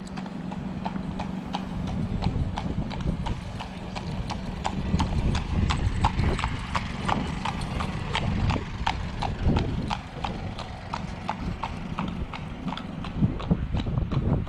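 A steady run of sharp, evenly spaced knocks, about three a second, over a low rumbling noise.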